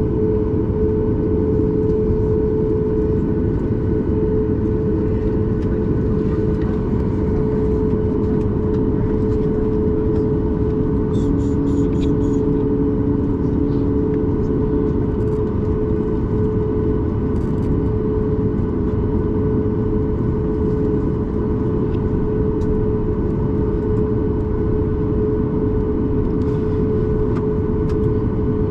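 Steady cabin noise inside a Boeing 737 MAX 8 from a window seat. The CFM LEAP-1B turbofan engines and airflow make a loud even rumble with a constant humming tone. A few faint clicks come about eleven seconds in.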